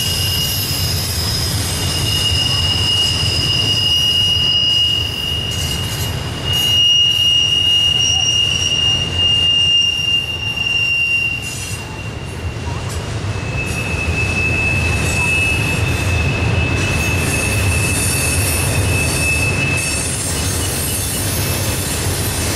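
Double-stack intermodal freight cars rolling through a tight curve: the steel wheel flanges squeal in a long, high, steady tone that shifts pitch a few times. A low, constant rumble of the cars on the rails runs underneath.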